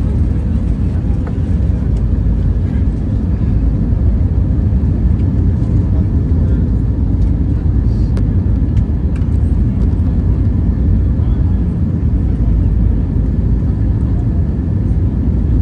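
Steady low rumble inside the cabin of an Airbus A321ceo airliner on its landing approach: engine and airflow noise heard from a rear window seat, even throughout with no touchdown bump.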